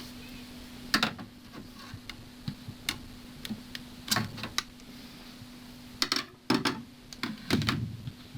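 Irregular clicks and taps of small hand tools against a plastic motorcycle fairing panel during a crack repair, with a steady low hum underneath.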